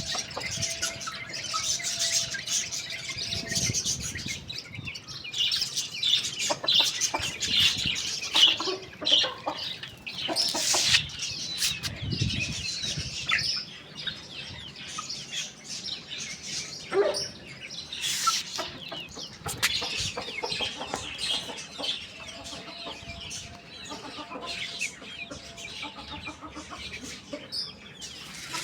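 Chickens clucking amid a busy mix of high chirps and sharp clicks.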